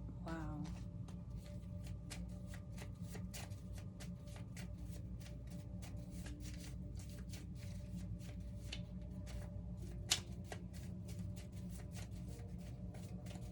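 A tarot deck being shuffled and handled: a long, quick run of soft card clicks and riffles, with one sharper snap about ten seconds in.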